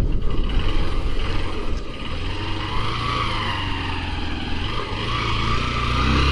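Motorcycle running under way with road noise. It eases off about two seconds in and builds again near the end.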